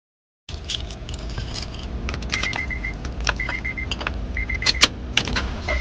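Ignition keys jangling and clicking at a 1st-gen Honda CR-V's ignition while the car's warning chime beeps in short runs. Near the end the engine begins to crank over for its first start after a distributor replacement.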